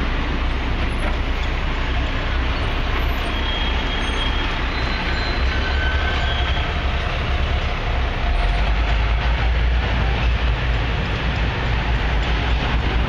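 Steady, loud city background noise with a heavy low rumble: traffic and construction-site machinery, with a few faint high squeals.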